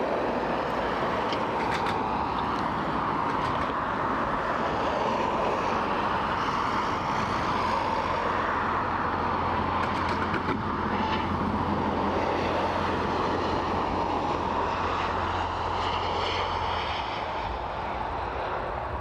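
Jet airliner engines running steadily at taxi power: a continuous rushing hiss with a low hum beneath, which drops away near the end as the sound eases slightly.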